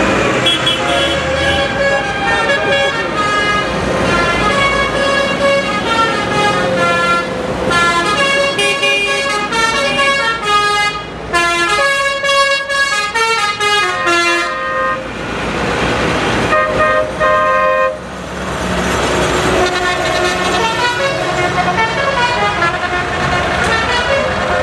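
A loud horn-like tune of quickly changing notes from the passing parade tractors, over the steady low running of their engines. The tune breaks off briefly about 15 and 18 seconds in.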